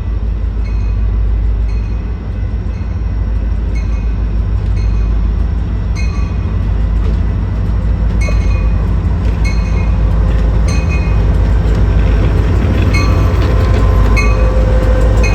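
A train rumbling steadily, a little louder toward the end, with a railroad crossing bell ringing about one and a half times a second.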